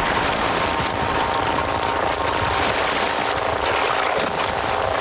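Water churning and splashing in a steady, dense rush, with no single loud impact standing out.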